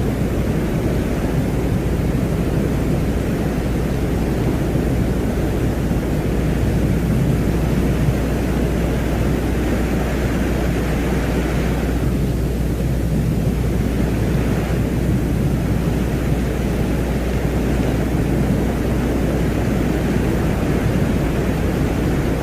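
Steady deep rumbling noise with a hiss above it, a space-ambience track presented as the sound of the planet Venus; the hiss thins for a few seconds midway.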